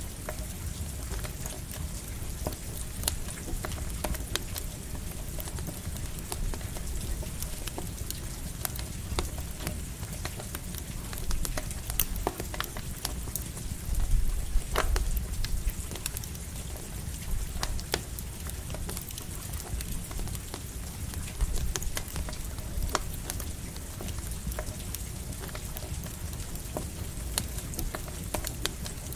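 Campfire crackling with scattered sharp pops over steady light rain and a low rumble, swelling briefly about halfway through.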